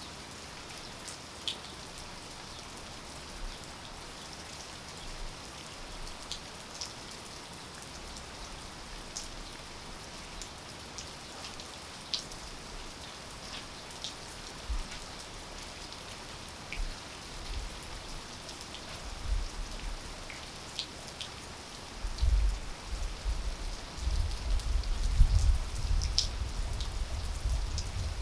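Steady rain with scattered sharp ticks of single drops striking close by. Near the end an uneven low rumble comes and goes under the rain.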